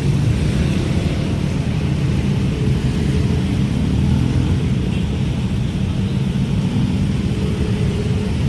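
Train passing a level crossing: a steady low rumble that holds level throughout.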